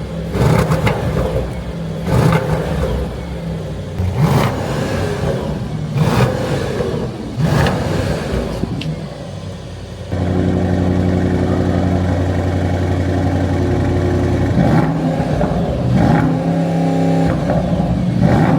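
Mercedes-AMG GT 63 S E Performance's twin-turbo V8 exhaust, revved in a series of short blips, then held at a steady, louder pitch for about four seconds about ten seconds in, then blipped again near the end. The exhaust is being played through the car's various drive modes.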